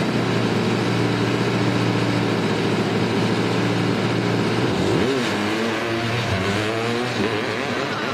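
Small gasoline engine of a miniature car running at a steady speed, then about five seconds in its pitch dips and climbs again as it is revved up.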